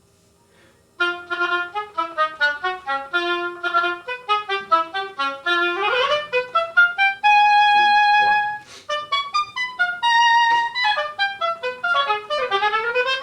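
Oboe playing a fast passage of short tongued notes, practising legato tonguing. The notes start about a second in, run in quick scales with a long held note around the middle, and climb in rising runs near the end.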